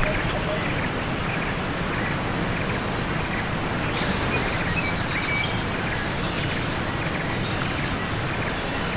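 A waterfall rushing steadily, with a few short, high chirps over it in the second half.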